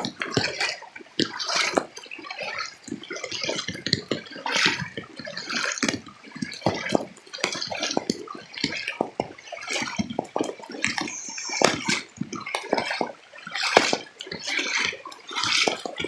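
Water splashing and dripping in a dense, irregular patter of small hits.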